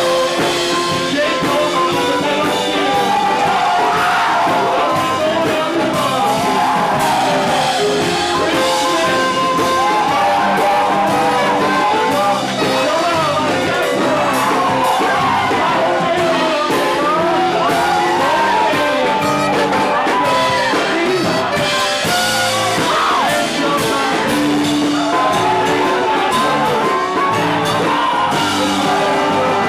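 Live rock band playing loud and without a break, with a lead line that slides and bends in pitch over the band.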